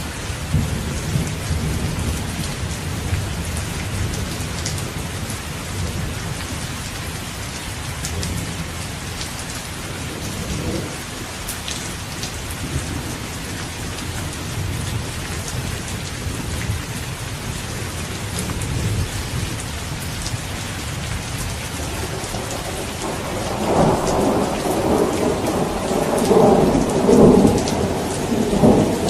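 Steady rain with low, rolling thunder rumbling underneath. Near the end a louder roll of thunder builds and runs on.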